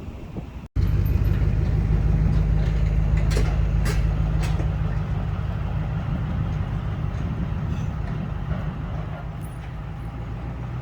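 A large engine idling with a steady low hum, a few faint clicks about three to four seconds in. A moment of wind noise comes before it.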